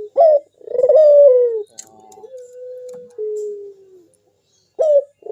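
Local puter dove (domesticated collared dove) cooing its full manggung call. A short rising note leads into a loud, longer falling coo, followed by a long, softer drawn-out lower note. The phrase starts again near the end.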